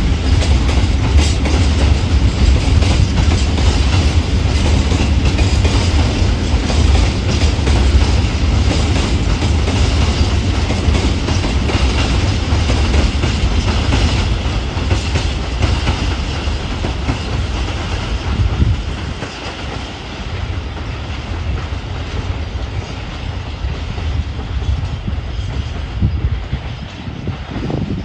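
Freight train of empty open coal wagons rolling past, the wheels clattering rhythmically over the rail joints with a heavy low rumble. The rumble eases about two-thirds of the way through.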